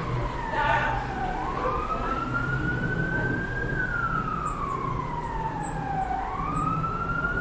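A siren wailing, its pitch slowly rising and falling in long unbroken sweeps, over a steady low rumble. A short sob-like sound comes about a second in.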